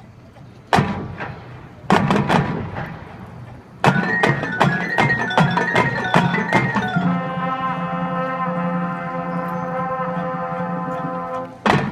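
Marching band playing: sharp percussion hits about a second and two seconds in, then a run of rhythmic hits with pitched mallet notes from about four seconds, settling into a long held chord from the band until new hits come in near the end.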